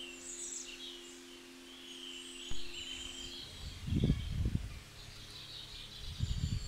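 Small birds chirping and twittering, over soft held background-music notes that stop about halfway through. Low rumbles hit the microphone in the second half, loudest twice near the end.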